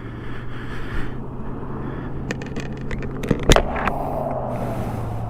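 Yamaha R1 sport bike's engine idling steadily through an aftermarket exhaust after the bike has come to a stop, with one sharp knock about three and a half seconds in.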